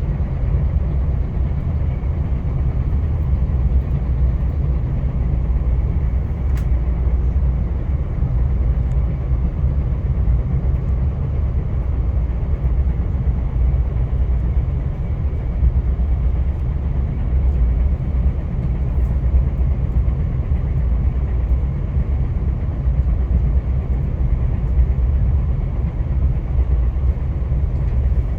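Via Rail passenger train in motion, heard from on board: a steady low rumble of the wheels running on the track.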